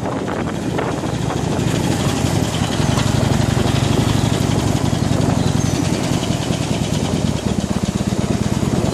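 Harley-Davidson Iron 883's air-cooled 883 cc V-twin engine running steadily at low revs while the motorcycle is ridden, its low pulsing exhaust note growing a little stronger after about three seconds.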